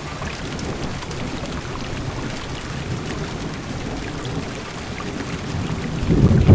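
Heavy rain falling on a car's windows, a steady hiss with many small drop ticks. A low rumble of thunder swells in near the end.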